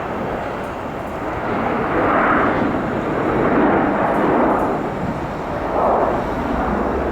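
Jet airliner engine noise, a steady rushing roar that swells and eases a few times.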